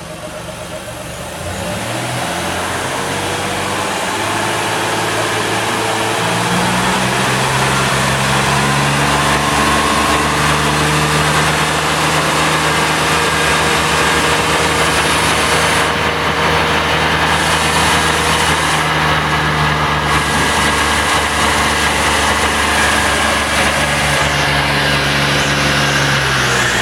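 2007 Chevrolet Impala engine running on a test run. It picks up over the first few seconds, rises in speed around six to eight seconds in, holds there steadily, and changes speed again near the end.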